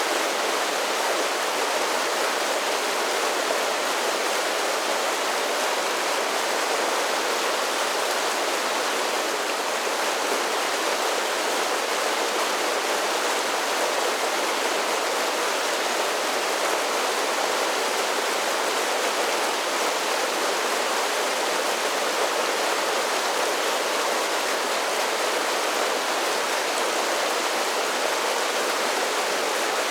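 Mountain creek cascading over a series of small falls: a steady, even rush of water.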